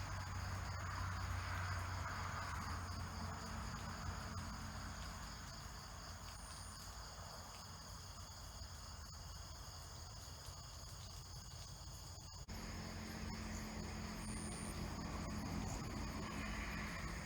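A steady chorus of insects trilling, a continuous high whirring, with a low rumble underneath. The sound breaks off abruptly and resumes about twelve seconds in.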